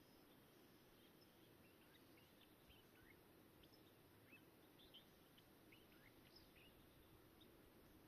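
Faint birds chirping: many short, scattered chirps, busiest in the middle, over a steady low hiss.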